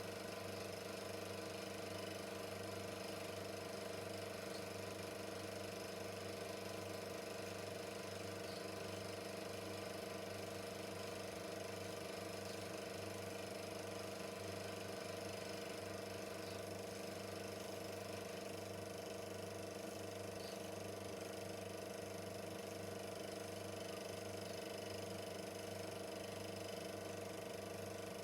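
Super 8mm film projector running: a steady motor whir with the fast, even clatter of the film transport mechanism.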